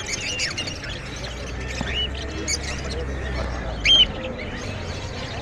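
Many caged small birds chirping and calling at once, short overlapping tweets, with one sharper, louder call about four seconds in. A low steady hum runs beneath through the middle of it.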